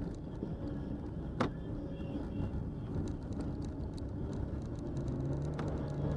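A car being driven, engine and road noise heard from inside the cabin as a steady low rumble, with a short click about a second and a half in and a steadier engine tone over the last second or so.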